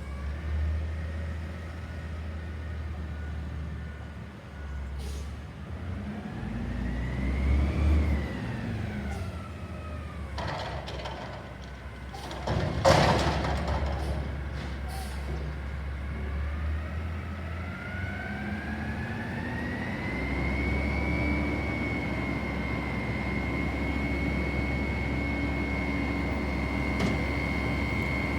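CNG Peterbilt 320 front-loader garbage truck working its McNeilus hydraulics to empty a dumpster: the engine revs up and falls back, loud metallic bangs come around ten and thirteen seconds in as the container is slammed, then the engine revs up again and holds a steady high whine.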